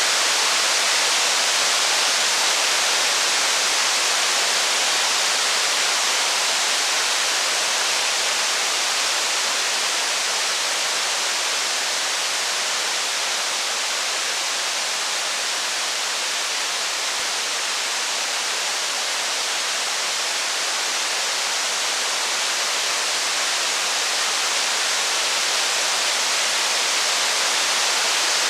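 Steady rain: an even, unbroken hiss with no thunder or fire crackle standing out.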